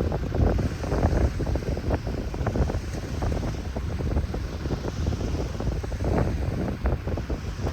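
Strong wind buffeting the microphone in irregular gusts, a heavy low rumble.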